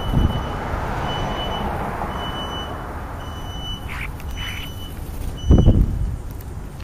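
Electronic beeper sounding a short high beep about once a second, over a rushing noise in the first two seconds; a single heavy thump comes about five and a half seconds in.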